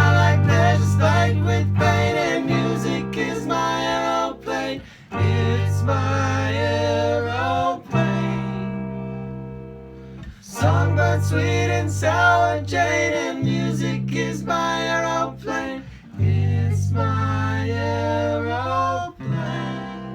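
A small acoustic band playing a funk-rock cover: plucked guitar over held low bass notes, with a wavering melodic line on top. The music eases off briefly about eight seconds in, then picks back up.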